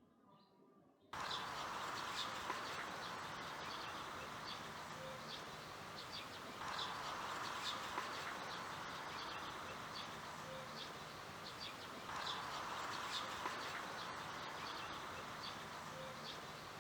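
Birds chirping over a steady hiss, starting abruptly about a second in. The same short stretch repeats about every five and a half seconds, like a looped nature-ambience track.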